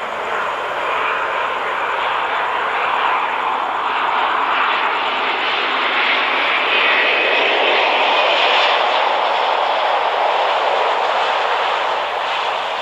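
Airliner's engines on a landing approach: a loud, steady rushing that swells to its loudest about two-thirds of the way through and eases slightly near the end, with a faint high whine in the middle.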